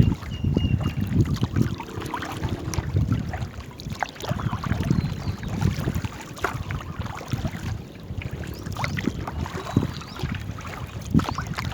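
Wind buffeting the microphone as a low, uneven rumble, with scattered light knocks and splashes from a small rowed boat on the river.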